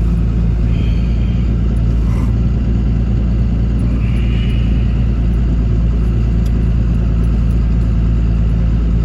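Pickup truck engine running steadily at an even low drone.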